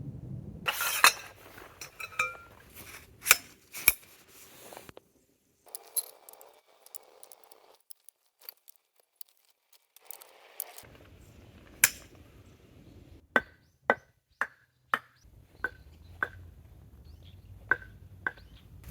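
Sharp metal-on-metal clinks and knocks from tarp-pitching gear. Scattered strikes come first; near the end a run of about eight strikes comes at roughly two a second, each ringing briefly.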